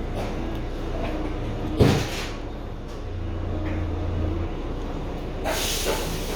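Steady low room hum with one sharp knock about two seconds in and a brief rustling noise near the end.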